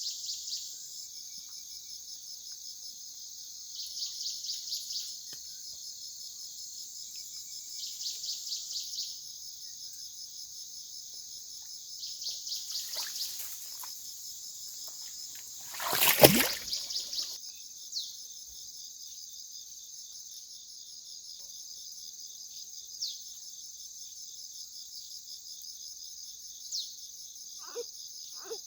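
Chorus of insects trilling steadily and high, with louder pulsing bursts of trilling every few seconds. About 16 s in there is one loud rush of noise lasting about a second.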